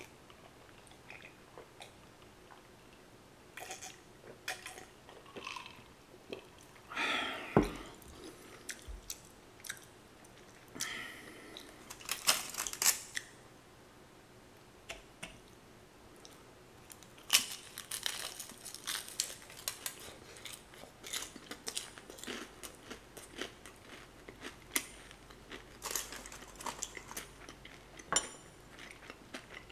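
Close-miked eating of crispy fried chicken: crunchy bites and chewing, in clusters of short crackles. A single sharp thud comes about eight seconds in.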